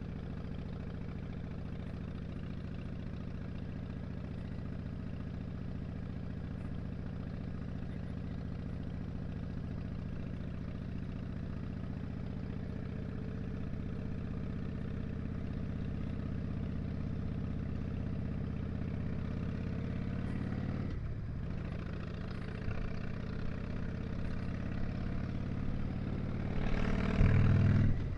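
Harley-Davidson Dyna Street Bob's air-cooled V-twin engine running under way, its pitch slowly rising as the bike speeds up. The sound dips briefly about three-quarters of the way through, then swells into a louder burst of throttle near the end.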